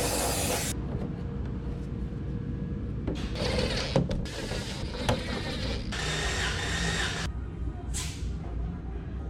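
Several hissing bursts, each a second or so long, cutting in and out sharply, with a couple of sharp clicks, over a steady low hum.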